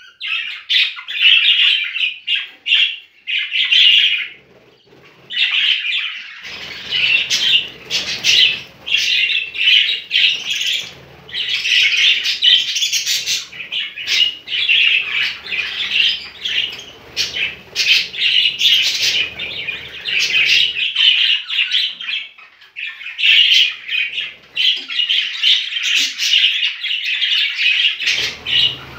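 A flock of budgerigars chattering and squawking continuously in dense, overlapping chirps. A low rumbling noise runs underneath through much of the middle and returns near the end.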